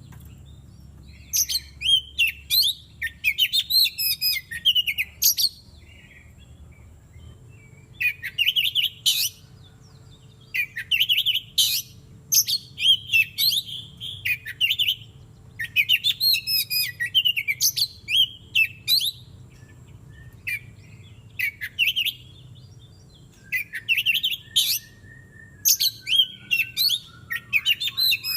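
Oriental magpie-robin singing: bursts of rapid, varied phrases a few seconds long with short pauses between them. A lower, slowly falling note comes in near the end.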